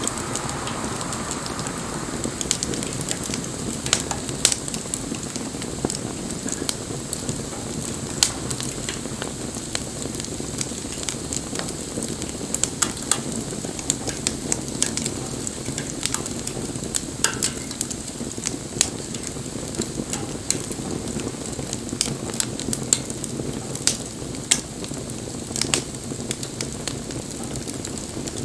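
Wood bonfire burning: a steady hiss with frequent, irregular sharp pops and crackles from the burning wood.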